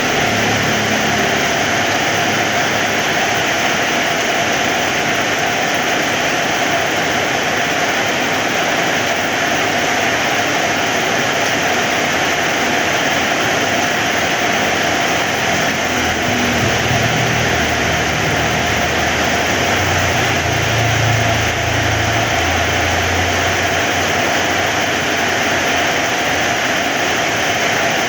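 Heavy rain falling in a steady, dense hiss. A low rumble comes up about halfway through and fades again.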